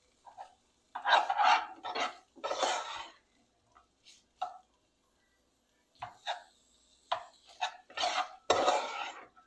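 Pots, dishes and utensils being handled: irregular clattering in two spells, one starting about a second in and another near the end, with a quiet stretch between.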